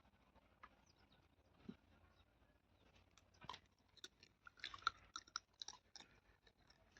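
Faint chewing and crunching, a run of small clicks and crunches that grows busier about two-thirds of the way through.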